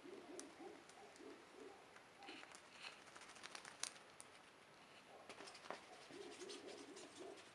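Faint bird cooing in short repeated phrases, at the start and again near the end, with scattered light clicks and ticks in between.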